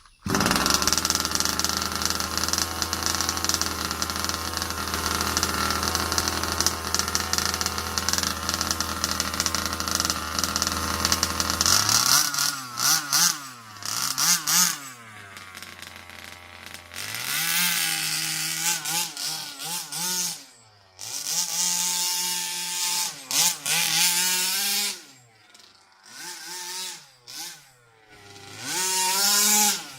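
HPI Baja 5B RC car's 23cc two-stroke petrol engine, fitted with a Dominator shorty expansion pipe, running at a steady pitch for about twelve seconds, then revving up and down again and again as the car is driven, with brief drops where the throttle comes off.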